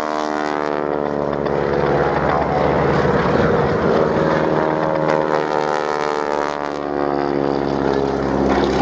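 Boeing Stearman biplane's radial engine and propeller droning steadily as it flies past, its pitch dropping slightly over the first few seconds.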